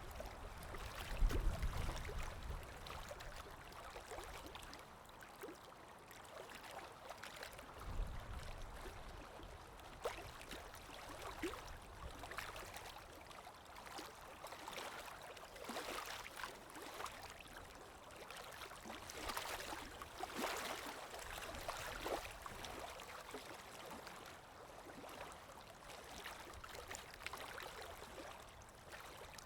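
Calm small waves lapping and washing in, a continuous gurgling, fizzing wash of water that swells and ebbs every few seconds. A deeper low thud comes about a second in and again about eight seconds in.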